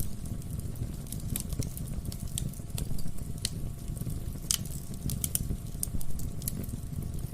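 Wood fire crackling in a fireplace: irregular sharp pops and snaps of the burning logs over a steady low rumble of the flames.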